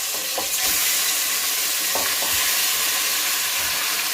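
Raw chicken pieces sizzling as they fry in hot oil and melted butter, a steady dense crackling hiss, with a few light knocks of pieces going into the pan.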